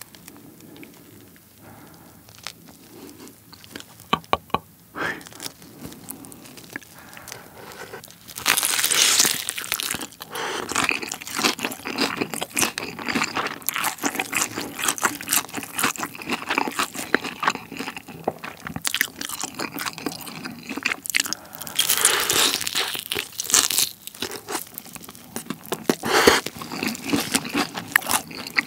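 Crisp fried chicken (Kyochon Honey Combo) being bitten and chewed close to the microphone. After a quieter stretch with a few soft clicks, loud crackling crunches begin about eight seconds in and go on in dense bursts.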